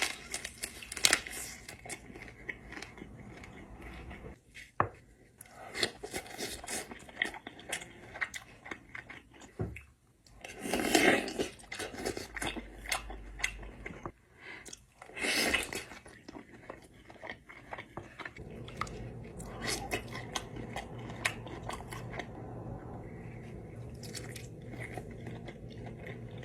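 Close-miked chewing and biting into a seafood boil, with crunching and many small clicks, and two louder stretches about eleven and fifteen seconds in.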